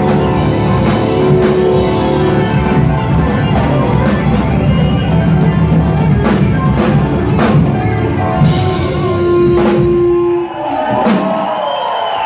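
Live rock band with drum kit and guitar playing the close of a song, with cymbal crashes and a final held note; the band stops about ten seconds in and the audience starts to cheer.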